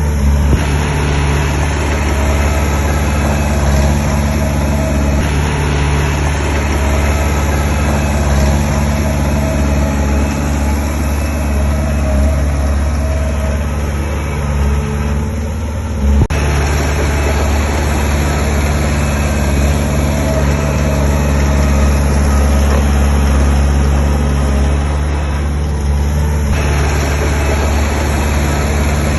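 Diesel engine of heavy earthmoving equipment running steadily with a strong low hum, its sound shifting abruptly a few times, with one sharp knock about sixteen seconds in.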